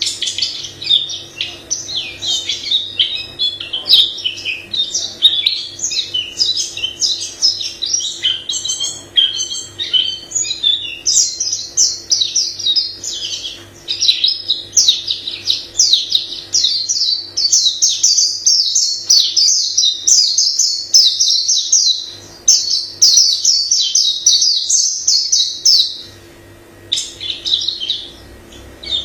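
A white-eye singing a long, fast, unbroken run of high chirping and warbling notes. It pauses for about a second near the end, then starts again. A faint steady hum sits underneath.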